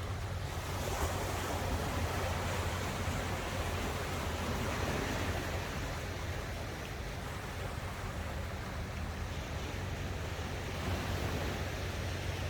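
Sea waves washing onto the shore, swelling and easing, with a steady low rumble underneath.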